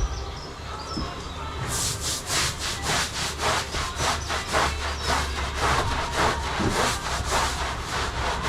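Rhythmic rasping strokes, about three a second, beginning about two seconds in, over a steady low rumble.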